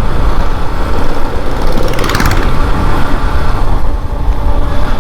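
Wind rumbling on the microphone over a Yamaha FZS motorcycle's single-cylinder engine running at riding speed on the road. A brief hissy burst about two seconds in.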